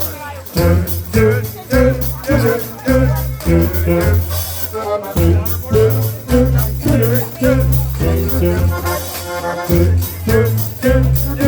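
Live polka band playing an upbeat instrumental passage, with a bass beat about twice a second, a melody line, and the scratchy rhythm of rub boards (washboards) played along.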